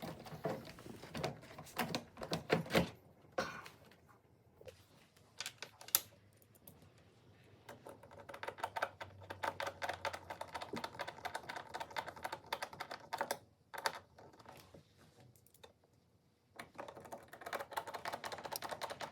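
Irregular light clicks and taps of hands working the dishwasher's door latch and door panel, quiet with short pauses in between.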